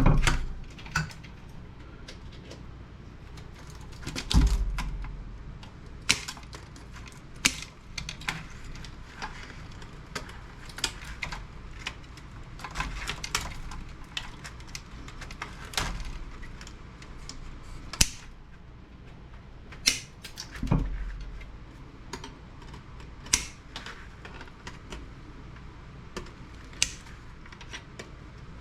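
Irregular clicks, taps and knocks of hand tools and loose metal and plastic parts being handled while a CRT monitor is taken apart by hand, with a few heavier thumps: near the start, about four seconds in and about twenty-one seconds in.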